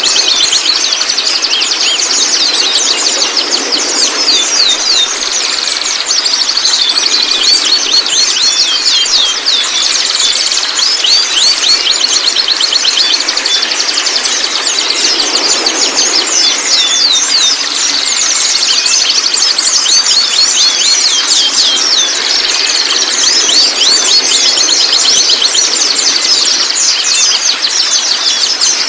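White-rumped shamas calling and singing: a dense, unbroken stream of quick, high, falling chirps and whistles.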